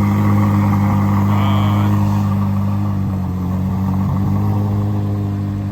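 A car engine idling steadily, a deep, even drone with no revving.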